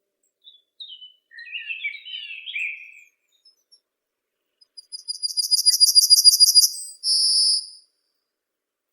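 Songbirds singing: a short warbled twittering phrase, then a fast trill of about six notes a second that grows louder and ends in a held high whistle.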